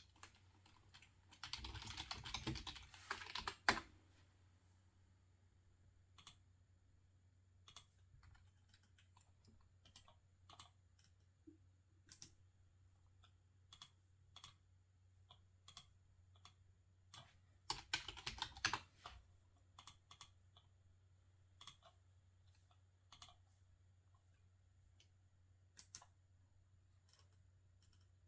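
Faint computer keyboard typing: a quick run of keystrokes about a second in and another about two-thirds of the way through, with single isolated clicks in between.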